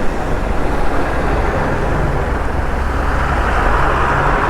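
Motorcycle running along a road: steady engine and road noise with wind, the rushing getting a little stronger about three and a half seconds in.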